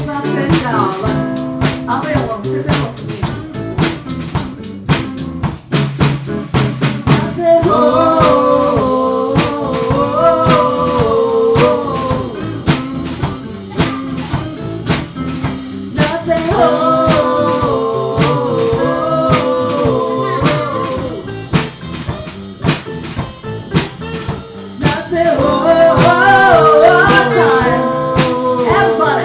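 Live band playing a blues-style song: a steady drum-kit beat with guitar chords. A wavering lead melody comes in three phrases, about 7 seconds in, about 16 seconds in, and near the end.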